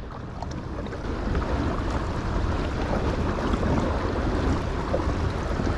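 Rushing water of shallow river rapids around a kayak, with wind buffeting the microphone as a low rumble. The water gets a little louder about a second in.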